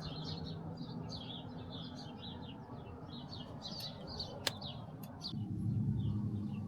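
Small birds chirping repeatedly, many short high chirps over a low background rumble. There is a sharp click about four and a half seconds in, and a low steady hum comes in and grows louder near the end.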